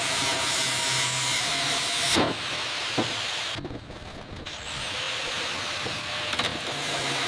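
Steady hissing noise, like a spray, air or blasting tool, with a couple of sharp knocks about two and three seconds in and a short lull in the middle.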